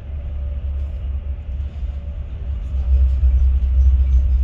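East Midlands Railway HST (Class 43 InterCity 125) running along the line: a steady low rumble that grows louder about three seconds in.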